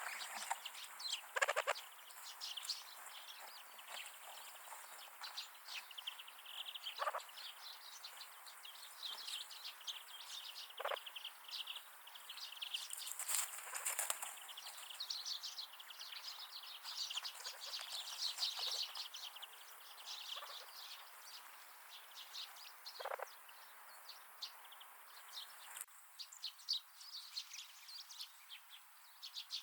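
Wild winter birds chirping and twittering in many short, high calls, with a few short knocks among them.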